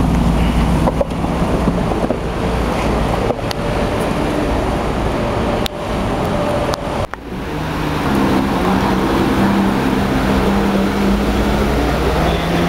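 Supercar engines and street traffic, with abrupt breaks in the first half, then a car's engine note holding steady from about two-thirds of the way in.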